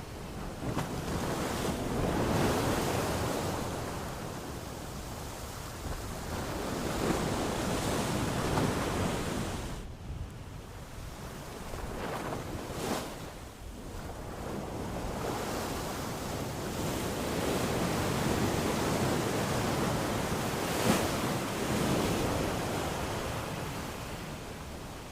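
Ocean surf: waves breaking and washing up the shore, a rushing wash that swells and falls back every several seconds.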